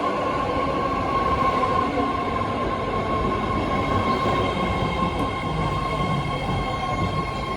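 BART Fleet of the Future electric train pulling into a station platform: steady rumble of the cars rolling on the rails with a steady high whine held throughout.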